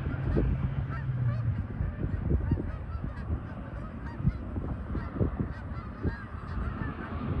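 A flock of geese honking: many short overlapping calls, over wind buffeting the microphone. A low steady hum is under the calls for the first second and a half.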